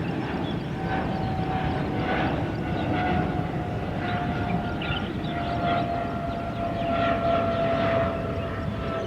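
Jet airliner engines passing: a steady rumbling roar with a whine that slowly drops in pitch.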